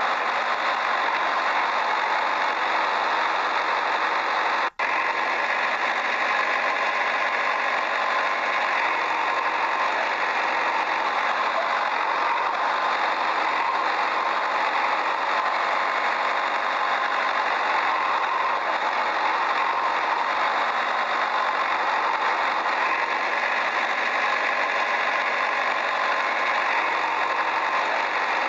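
A tractor engine running steadily with a rattling knock, unchanging throughout, with a brief cut-out about five seconds in.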